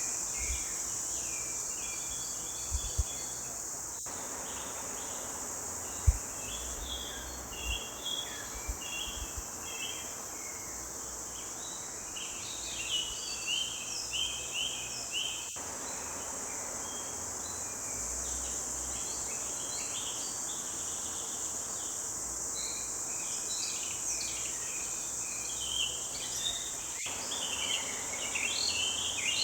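Several songbirds chirping and singing in quick, overlapping phrases over a steady, high-pitched insect drone. A few brief low thumps, the loudest about six seconds in.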